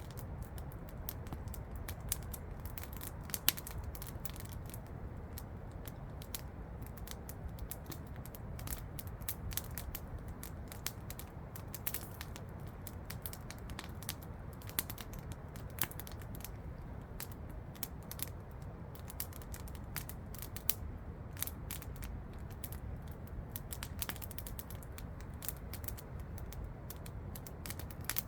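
Wood campfire crackling, with many irregular sharp pops and snaps, over the steady rush of a waterfall.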